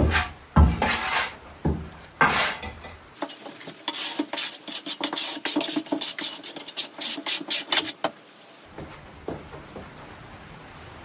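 Trowel scraping and spreading thinset mortar: a few long strokes, then a quick run of short scraping strokes that stops about eight seconds in.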